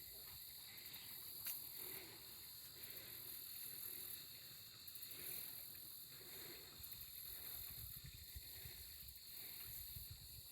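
Faint, steady chorus of crickets chirping, with a low rumble underneath.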